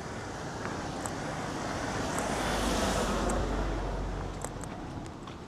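A motor vehicle passing close by on the road. Its engine rumble and tyre noise swell to a peak about halfway through, then fade away.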